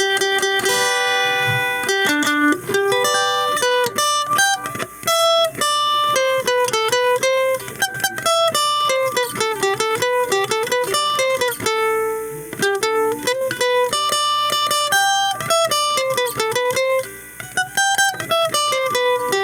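Guitar plugged in and played through an amplified speaker box: a single-note melody of sustained notes, some sliding and bending in pitch.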